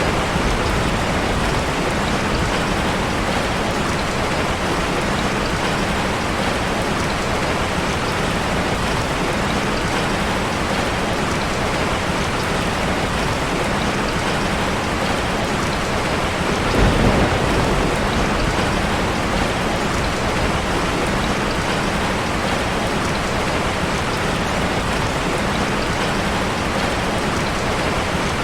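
Heavy rain falling steadily on a car's roof and windows. About two-thirds of the way through there is a brief low rumble.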